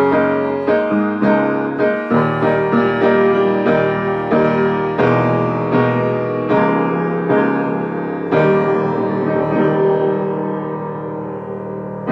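Solo piano playing chords, struck about twice a second, then settling on a final held chord that fades away over the last few seconds.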